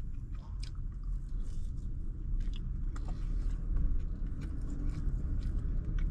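A person chewing a mouthful of karaage (Japanese fried chicken breast), with short scattered clicks and soft mouth sounds over a steady low rumble.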